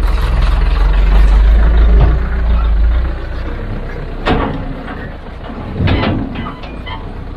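Heavy vehicle engine running with a deep rumble that eases off about three seconds in. Two short, sharp sounds follow, about four and six seconds in.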